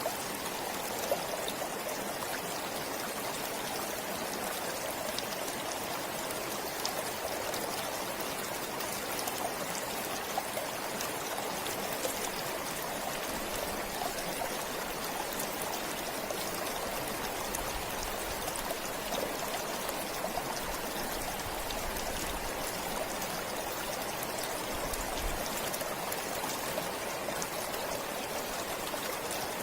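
A forest stream flowing and trickling steadily, with small splashes and drips over the rush of water.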